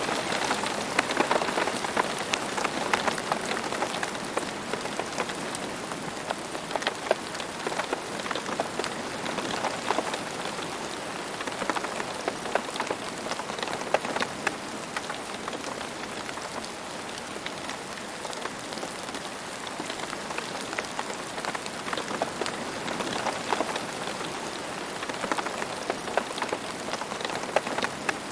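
Steady rain falling, a continuous hiss with many close individual drops pattering on a hard surface.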